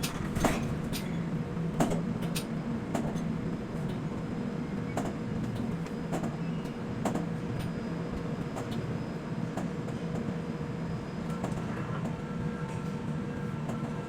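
Quay container crane machinery running with a steady low hum and a faint whine, with scattered light clicks and knocks.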